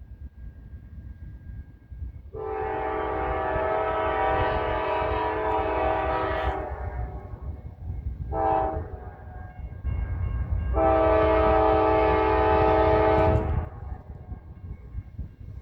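A train's multi-chime air horn sounds a long blast, a short one, then another long blast, over the low rumble of the approaching train.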